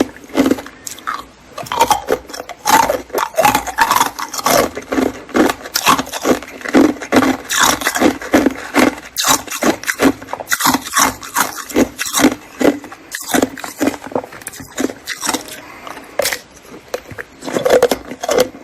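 Someone biting and chewing ice close to the microphone: dense, irregular crunches and cracks with barely a pause.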